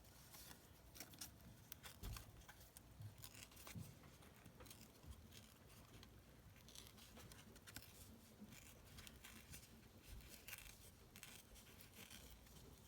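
Card stock being torn by hand in short, faint, irregular rips along its edge to give it a jagged, distressed look.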